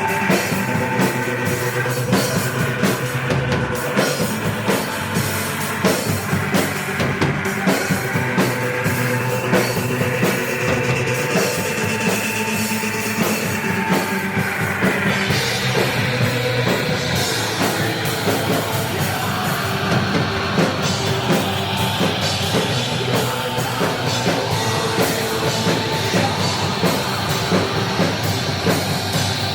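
Noise-rock band playing an instrumental passage: a drum kit under a dense, distorted wall of sustained sound, which turns brighter about halfway through.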